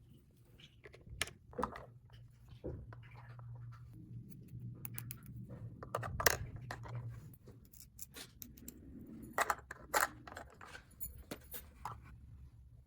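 Small plastic toy pieces being handled: scattered light clicks and taps, with a few sharper knocks about six and ten seconds in, over a faint low hum.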